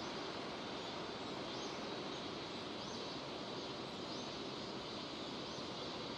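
Steady hiss of falling rain, with a bird's short chirp sounding faintly four times at even spacing, about every second and a quarter.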